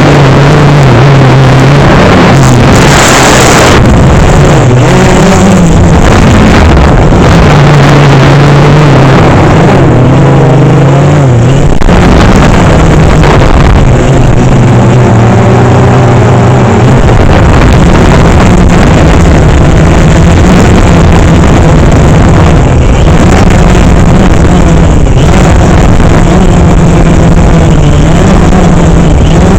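DJI Phantom 3 quadcopter's motors and propellers buzzing loudly over a heavy rushing noise, the hum shifting up and down in pitch as the motor speeds change.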